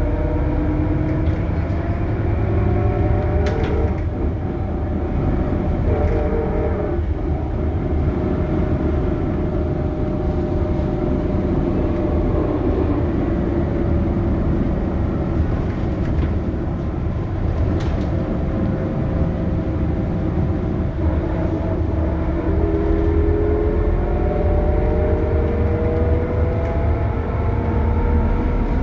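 Scania K280UB bus's nine-litre five-cylinder diesel and ZF Ecomat automatic gearbox running under a heavy low drone. Several whining tones fall slowly over the first half, then a new set rises from about two-thirds of the way in, with a couple of sharp clicks. This is the drivetrain whine the uploader calls a horrible sound.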